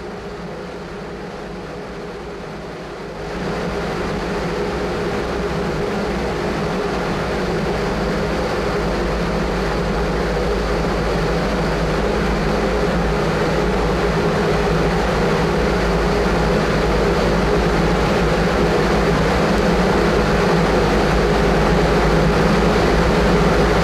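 A large wind-test fan blowing a strong steady wind across a tiled roof, with a low machine hum. It steps up about three seconds in, grows slowly louder and then cuts off suddenly.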